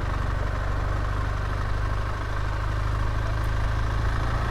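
BMW R1200GS Adventure's boxer-twin engine running at a steady speed while the motorcycle is ridden, with an even hiss of wind and road noise over it.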